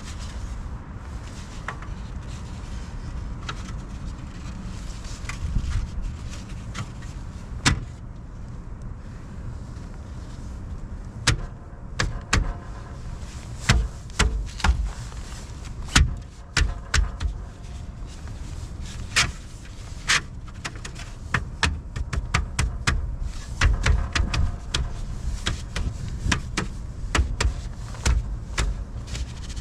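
Irregular knocks and clunks of hands-on work with metal and tires: scattered at first, then coming thick and fast through the second half, over a low rumble.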